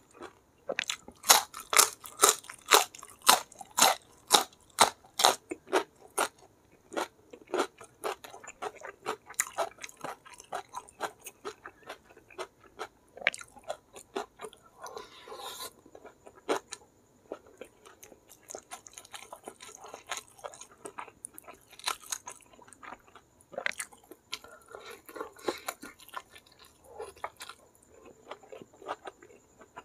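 Close-up chewing: loud, crisp crunching of a raw winged bean, about two bites a second, for the first several seconds, then softer, wetter chewing of rice and curried mutton eaten by hand.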